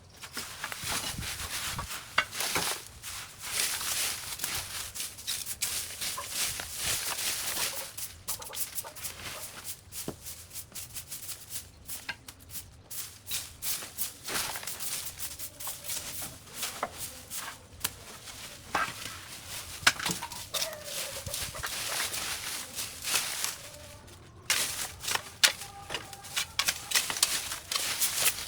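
Dense rustling and crackling of vines and brush being pulled and cut, with many short snaps and clicks and a few brief lulls.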